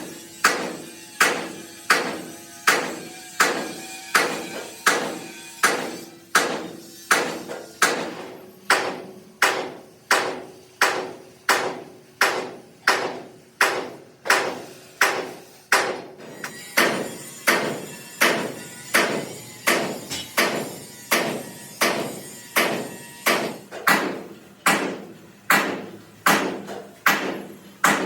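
Steady, evenly spaced hammer blows on steel, about one and a half strikes a second, each ringing briefly, as a truck wheel rim plate is worked.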